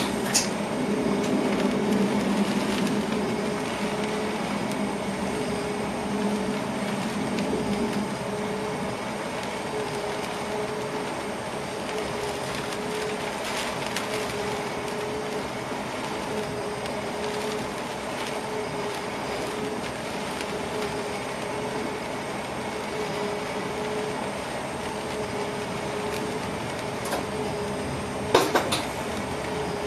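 Passenger train heard from inside the driver's cab, its running noise dying down over the first several seconds as it slows for a station, then a steady hum with a faint, evenly pulsing tone. A few sharp clicks near the end.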